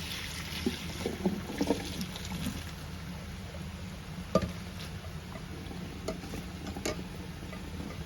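A steady low hum with scattered light clicks and knocks, the sharpest about four seconds in.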